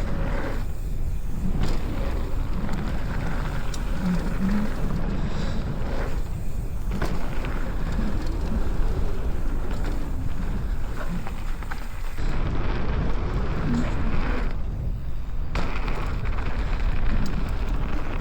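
Wind rushing over the microphone of a camera on a mountain bike riding downhill, with the tyres rolling on the dirt trail; the hiss drops away briefly three times.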